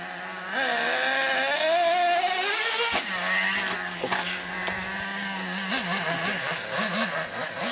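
Small nitro engine of an RC truck revving, its pitch rising over a couple of seconds. A sharp knock about three seconds in, then the engine runs at a steady idle with a few short throttle blips near the end.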